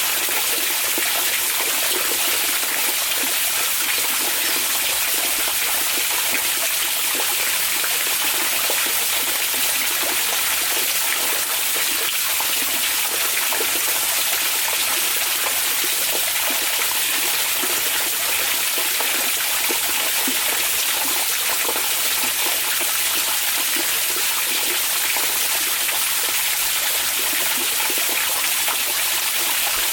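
Onsen hot-spring water running steadily, an even, unbroken splashing rush.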